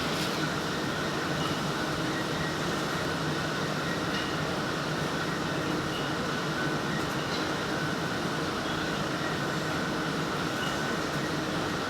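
Button polishing machinery running in the factory: a steady, unchanging mechanical noise.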